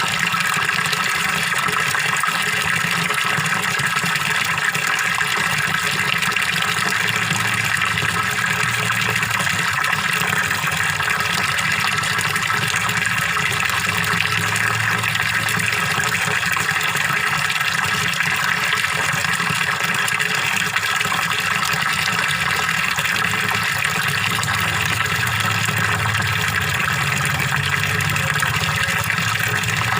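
Small waterfall splashing and gurgling steadily into a fish pond, a continuous, even rush of water.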